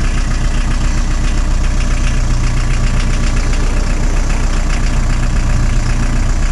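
1980 VW pickup's four-cylinder diesel engine idling steadily with an even, rapid clatter, shortly after a cold start and still warming up.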